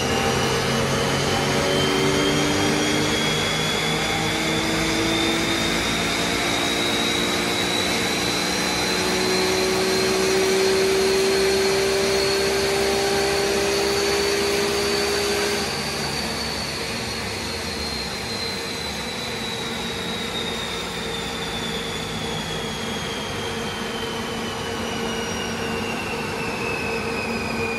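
Supercharged 3.2-litre straight-six of a BMW E46 M3 making a full-throttle pull on a chassis dyno. The Vortech V-2 Ti centrifugal supercharger's whine and the engine note climb steadily in pitch for about fifteen seconds. Then the throttle is released and the whine falls slowly as the engine and rollers coast down.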